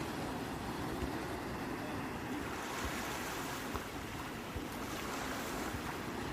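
Sea waves washing in a steady, continuous surf wash, with a low rumble that swells and eases.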